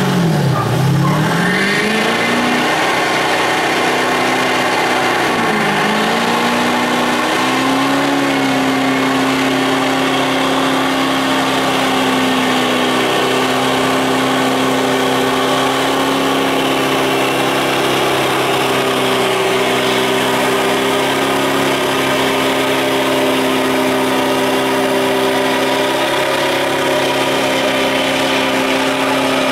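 Truck engine revving hard: the pitch drops and climbs in the first couple of seconds, dips again about six seconds in, then is held at steady high revs for over twenty seconds during a burnout.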